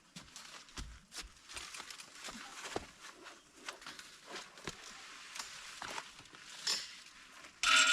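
Irregular rustling, scraping and light knocking from a person moving about and handling fence materials, with footsteps among them. A louder metallic clink rings briefly near the end.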